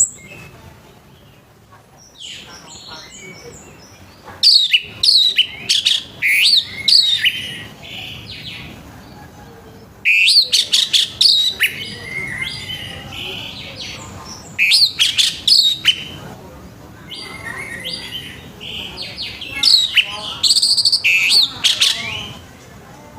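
Orange-headed thrush singing loudly in four bursts of fast, varied, sweeping high notes, with softer chirps between the bursts.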